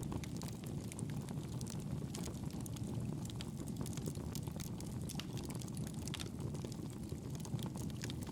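Campfire burning with a steady low rush of flames and frequent small sharp crackles and pops from the burning wood.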